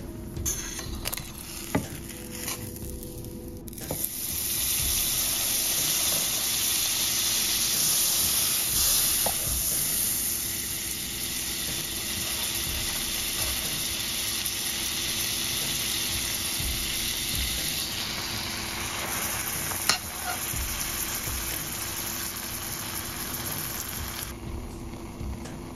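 Butter and bread frying in a stainless steel skillet: a steady sizzle that starts abruptly about four seconds in, after a few light knocks, and cuts off shortly before the end.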